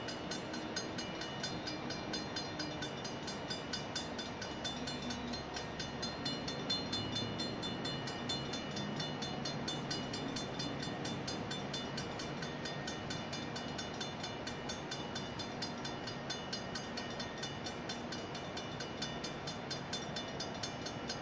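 Freight train cars rolling past through a railroad grade crossing, a steady rumble of wheels on rail. The crossing warning bell rings in a rapid, even rhythm over it throughout.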